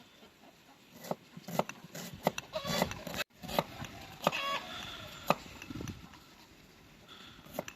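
Chickens clucking in short calls, with a few sharp knocks in between.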